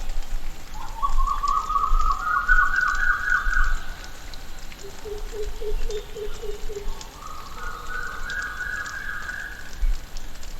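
Tropical rainforest ambience: a long, rising, rapidly pulsing animal call comes twice, with a lower pulsing call in between, over a steady background hiss with faint scattered ticks.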